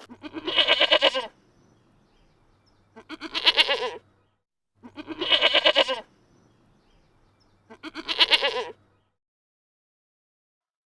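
Sheep bleating four times, each call about a second long with a quavering pitch.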